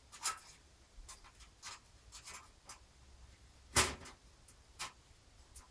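A motherboard being fitted into a PC case: scattered light scrapes and clicks of the board and its I/O ports against the case, with one sharper knock a little under four seconds in and a smaller one about a second later.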